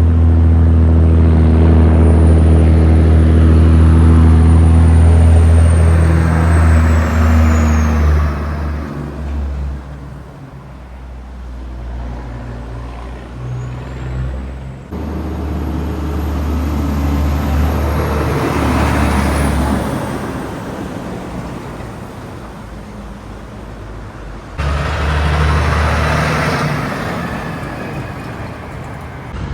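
Heavy trucks passing on a highway one after another. The first and loudest has a deep diesel engine drone and a thin high whine that falls in pitch as it goes by over the first several seconds. Further vehicles pass about halfway through and near the end.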